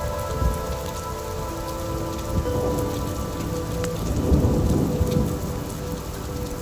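Steady rain falling, with a low thunder rumble that swells about four seconds in and then fades. Scattered sharp crackles and soft held tones sit under the rain.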